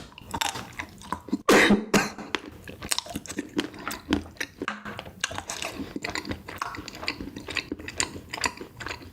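A person chewing and biting chocolate desserts close to the microphone, with many small sticky and crunchy clicks. One loud, short burst comes about a second and a half in.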